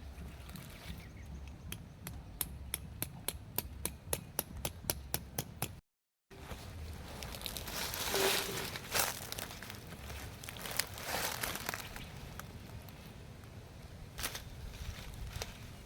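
Rapid, regular tapping, about four strokes a second, stops at a cut. Then comes a stretch of crinkling, rustling handling sound, and the tapping starts again near the end.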